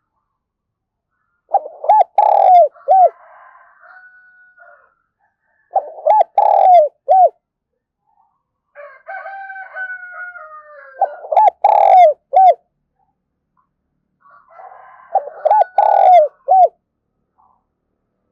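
A spotted dove decoy bird cooing: four phrases, each a quick run of a few short arching coos, spaced a few seconds apart. This is the urgent, repeated 'thổ pha thúc' style of call that Vietnamese dove keepers use to provoke wild doves.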